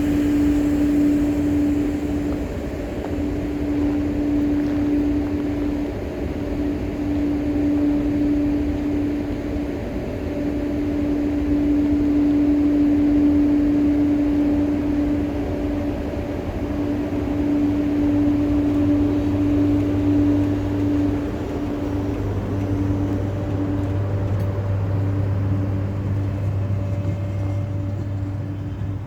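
Finnish Sr1 electric locomotive pulling a passenger train away from a station. A steady mechanical hum with a mid-pitched tone that breaks off now and then, and a deeper drone that grows stronger about two-thirds of the way through.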